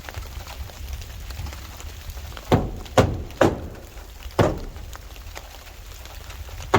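Hammer blows on wood: four strikes, three in quick succession and a fourth a second later, over a steady low rumble.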